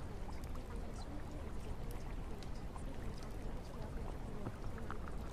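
Steady rain falling: an even hiss with scattered drop ticks throughout.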